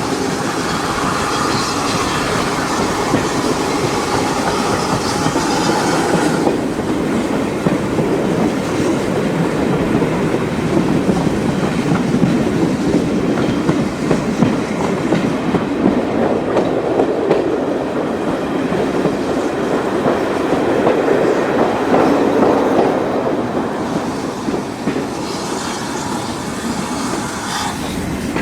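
Heritage train of carriages hauled by steam locomotive No. 9351 running along the track, wheels clicking over rail joints, with a squeal from the wheels early on and again near the end.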